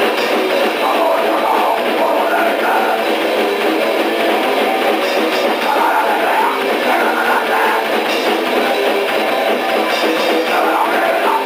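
D-beat raw punk recording: distorted electric guitar over a drum kit, played continuously with a thin, lo-fi sound that has almost no low end.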